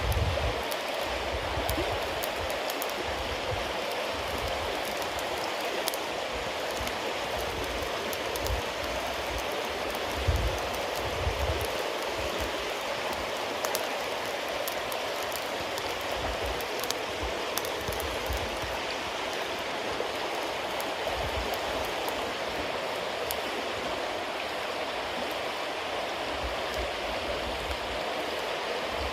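Campfire of wet cedar leaves and damp firewood burning with a steady hiss and scattered small crackles and pops, and a soft low rumble that comes and goes.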